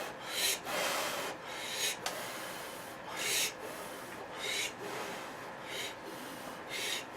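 Short breathy mouth sounds of a person eating hot ramen, about one every second or so.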